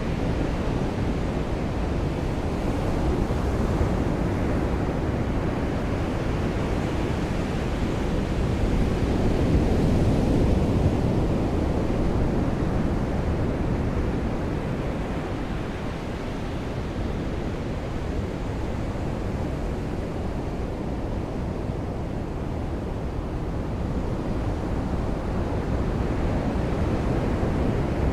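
Steady wash of sea surf on a shore in the rain, swelling louder about ten seconds in, easing off a few seconds later, and building again near the end.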